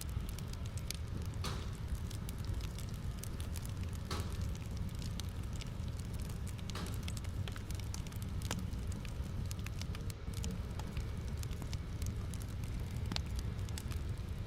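Wood fire in a fireplace crackling, with scattered snaps and a few louder pops over a steady low rumble.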